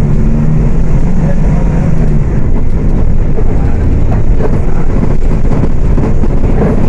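Diesel engine of a Volksbus 18.280 OTS city bus running while the bus is under way, heard from inside the bus. A steady engine tone for the first couple of seconds gives way to a deep rumble with scattered rattles and knocks.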